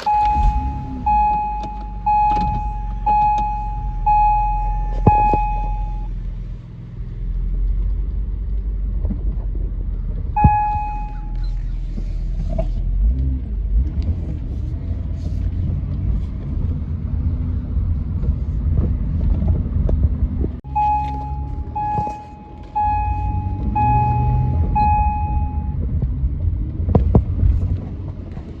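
Low, steady engine and road rumble of a 2009 Acura MDX heard from the cabin. A dashboard warning chime rings about once a second, six times at the start, once near the middle, and five times again later.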